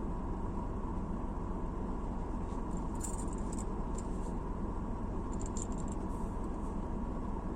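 Steady car road and engine noise heard from inside the moving car. It is broken twice, around three seconds in and again after five seconds, by brief high metallic jingling, like keys or small loose items shaking with the car.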